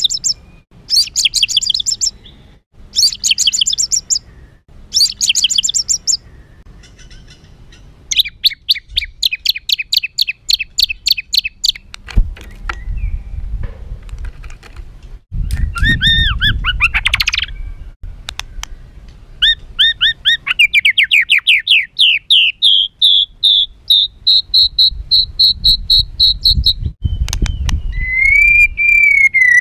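White-rumped shama singing harsh, agitated song: four short rattling bursts, then a long rapid trill, a sweeping phrase, and a trill that speeds up into a steady tone, ending on a wavering whistle. A low rumble runs under the middle of the song.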